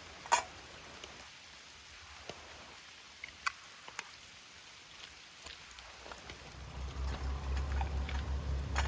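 Rain falling with a steady hiss and scattered sharp drop taps, the loudest about half a second in. From about two-thirds of the way through, a low pulsing rumble rises underneath.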